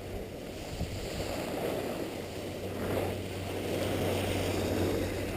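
Skis sliding over snow with wind rushing over the microphone, a steady rush that grows a little louder partway through.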